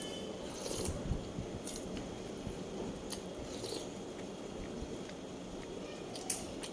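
A person chewing and biting food close to the microphone, with a few short sharp mouth clicks scattered through, the sharpest near the end.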